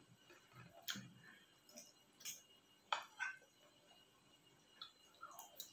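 A person chewing food close to the microphone: soft, scattered mouth clicks and smacks, with a sharper click about three seconds in.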